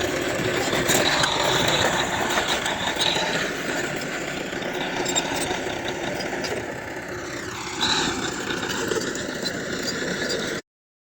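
Heavy earthmoving machinery's diesel engine running steadily, its pitch dipping and then rising again about two-thirds of the way through. The sound drops out briefly just before the end.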